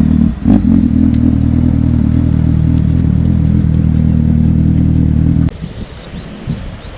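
Motorcycle engine running hard at steady high revs, with a brief dip about a third of a second in, then cutting off abruptly about five and a half seconds in, leaving a much quieter background.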